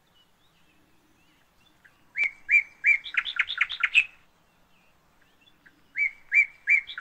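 Bird song: a short phrase of three or four clear notes followed by a quick run of higher notes, sung about two seconds in and repeated near the end.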